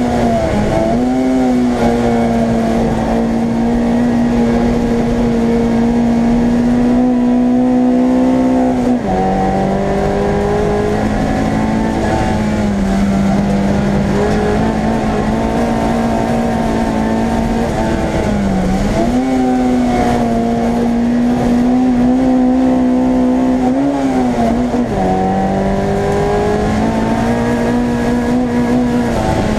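Small race-prepared car's engine running hard at high revs, heard from inside the stripped, roll-caged cabin. Its pitch holds steady for long stretches and dips and recovers briefly a few times.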